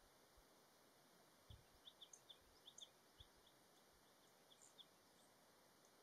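Near silence broken by a run of faint, short, high chirps from a small bird, about a dozen between one and a half and five seconds in, with a few soft low knocks among the first of them.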